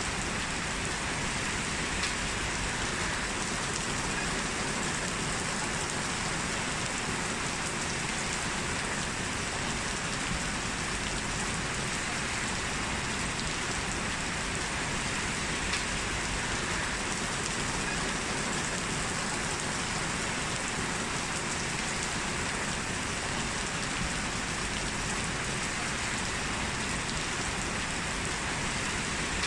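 Heavy rain falling steadily, an even dense hiss with occasional individual drop ticks.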